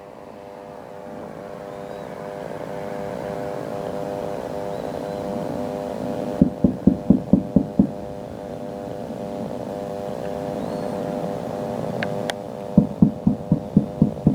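Aircraft engines droning, a steady many-toned hum that builds over the first few seconds. Twice, near the middle and at the end, a run of rapid heavy pulses beats about six times a second over it, with a single sharp click just before the second run.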